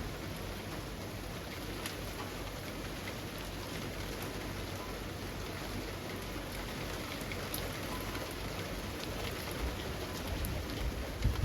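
Steady rain falling among trees, with scattered individual drops ticking through the hiss. A few low bumps come near the end.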